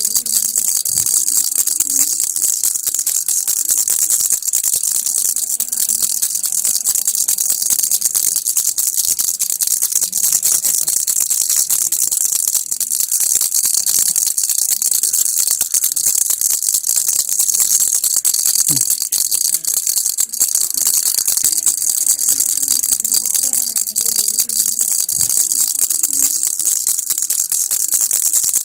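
Baby rattle (kilukki) shaken continuously: a dense, steady, high-pitched rattling with no breaks.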